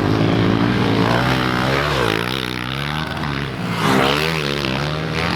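Pit bike engines, small four-stroke dirt bikes, revving hard on the track, their pitch repeatedly rising and falling as the throttle is worked over the jumps and turns.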